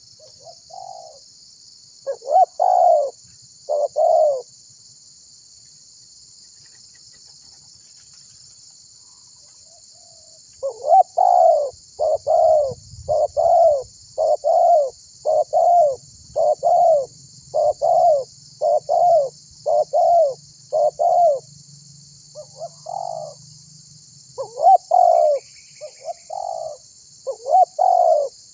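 Spotted dove (tekukur) cooing in its repeated song: three coos about two seconds in, then after a pause a long run of coos about one a second, a short break, and more coos near the end. A steady high hiss runs underneath.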